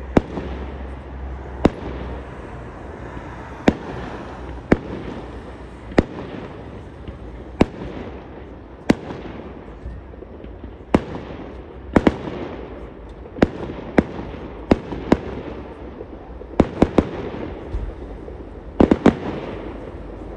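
Fireworks display: sharp bangs of aerial shells bursting every second or two, several coming in quick clusters of two or three towards the end, over a continuous crackling din.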